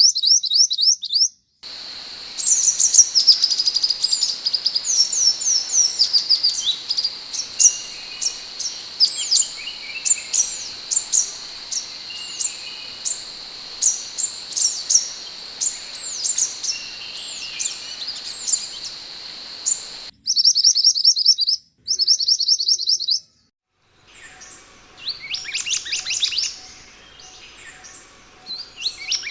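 Scarlet minivet (sepah hutan) calling: fast runs of high, sharp chirps, spliced together from several recordings with abrupt cuts to silence about a second and a half in, around twenty seconds in, and again a few seconds later. A steady high whine runs under the chirps through the long first stretch.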